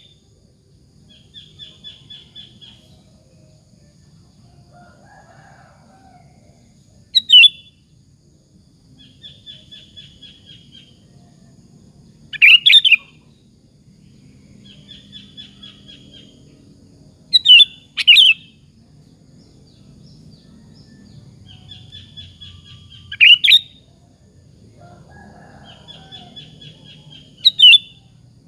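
Sooty-headed bulbul singing: loud, short whistled calls about every five seconds, each alternating with a quieter run of fast chattering notes.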